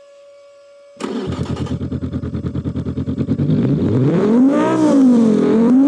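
A steady faint hum, then about a second in a race car engine starts and runs with a fast pulsing idle. From about halfway through it is revved up, drops back, and rises again near the end.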